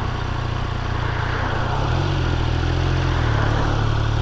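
Triumph Speed Triple 1200 RR's inline three-cylinder engine running steadily under way, with a low engine note over wind and road rush. The engine note settles into a steadier, clearer tone about halfway through.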